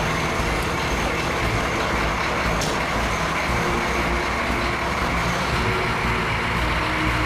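Humvee's V8 engine running steadily just after being started.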